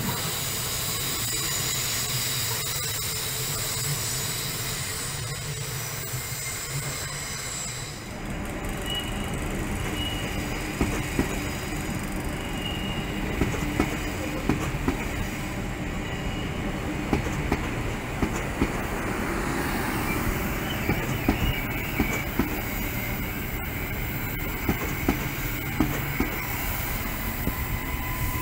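Queensland Rail electric suburban trains running. First comes a high steady squeal from the wheels on the rails. About eight seconds in it changes to a train rolling along the platform, its wheels rumbling and clicking over the rail joints.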